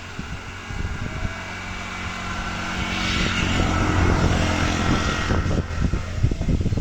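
Vehicle engine running with a steady low hum, getting steadily louder, with a hiss of road and air noise swelling in the middle.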